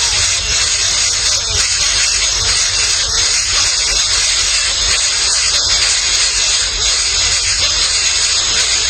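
Nestling birds hissing steadily and loudly, an even hiss with no breaks.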